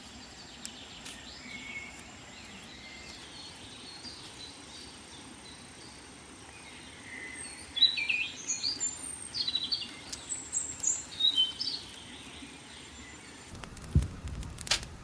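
Forest birds chirping and whistling in short, repeated calls over a steady background hiss, with a faint steady high insect tone. Near the end the ambience changes and a few sharp clicks or knocks sound.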